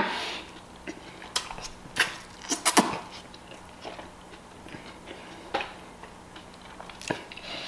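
A person chewing a mouthful of a stacked fast-food sandwich, with scattered short wet mouth clicks and smacks.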